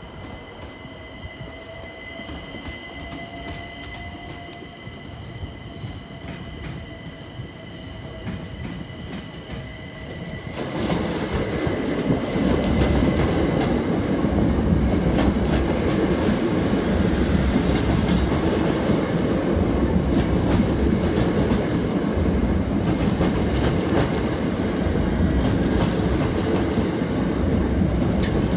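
Electric multiple-unit passenger train at a level crossing. It is heard faintly on approach under a steady high tone, then passes close by from about ten seconds in: a loud, sustained rumble of wheels on rail with clicks over the rail joints.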